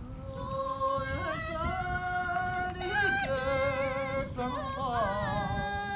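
A Mosuo woman singing unaccompanied in a high voice, holding long notes that step up and down in pitch, with a wavering warble on some notes.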